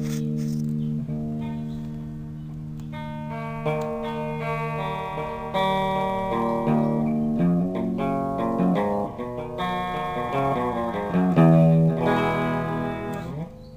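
Electric guitar played clean through a Crate GX-10 practice amplifier. A chord rings out for the first few seconds, then a run of single notes and chords follows, ending in a slide near the end.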